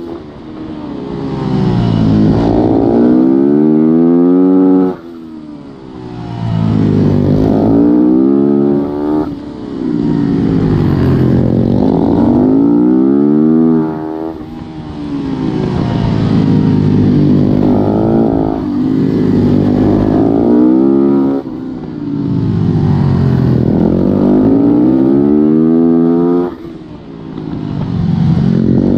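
Supermoto motorcycle's single-cylinder four-stroke engine, heard onboard under race conditions. It accelerates hard, rising in pitch in steps as it shifts up, then the throttle shuts off sharply for a corner. This happens about five times.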